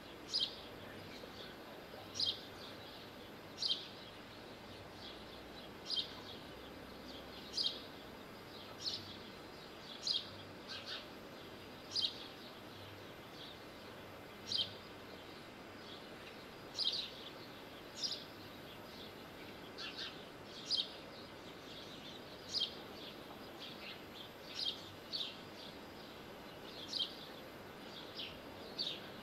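A small bird's short, high chirps, repeated every second or two over a faint steady hiss of outdoor background noise.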